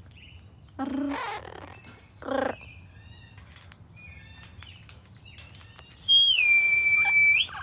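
A long, loud whistled note that starts higher, drops and holds steady for over a second, given as the warning signal for a hawk; before it, two short harsh parrot calls and a few faint chirps.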